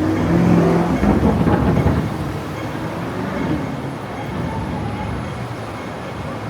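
Hong Kong double-decker tram running on its street rails: a rumble with wheel clatter, loudest in the first two seconds and then settling to a steadier rumble.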